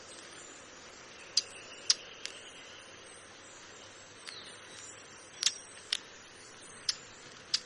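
Birds giving short, sharp chip calls, about eight at irregular intervals, over a low steady hiss. A faint thin whistle is heard about a second and a half in.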